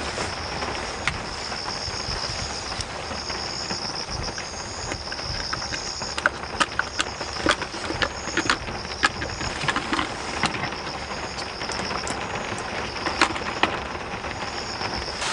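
Steady rain falling, with a run of sharp taps and knocks between about 6 and 14 seconds in. A high, pulsing insect chirring runs under the rain.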